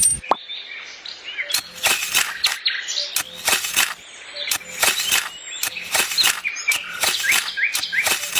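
Irregular sharp clicks and taps, two or three a second, with birds chirping.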